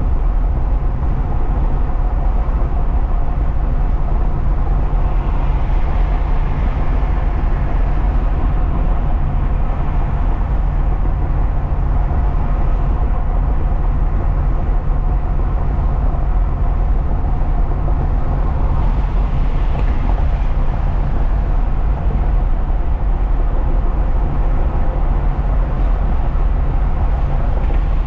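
Steady engine drone and road rumble of a truck driving, heard inside the cab, with a constant low hum.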